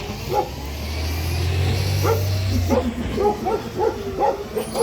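Dogs barking over and over, the barks coming quick and fast from about two seconds in, with a vehicle engine's low rumble underneath for the first few seconds.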